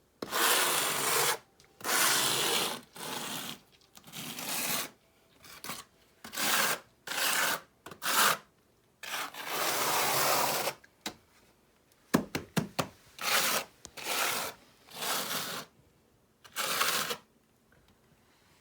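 Repeated scraping strokes of a trowel working mortar among river rocks, each stroke about a second long with short pauses between. About twelve seconds in come a few quick knocks, as of stone or tool tapping.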